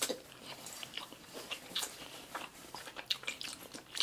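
Close-miked chewing of sushi, a mouthful being eaten with irregular small mouth clicks.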